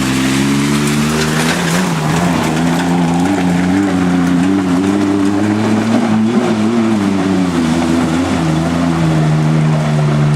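Ford Ranger pickup's engine revving hard and held at high revs on a slick hill climb. Its pitch wavers up and down in the middle and steadies near the end, over a hiss of spinning tyres and mud.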